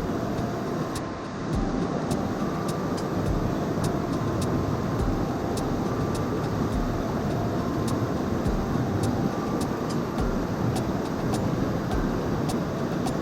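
Mountain stream rushing steadily, with faint scattered clicks over it.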